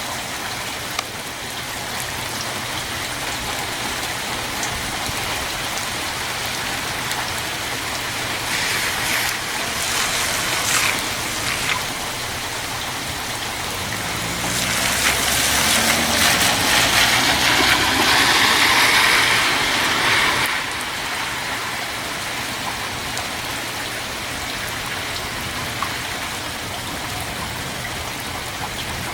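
Steady rain falling, an even hiss that swells louder for several seconds around the middle.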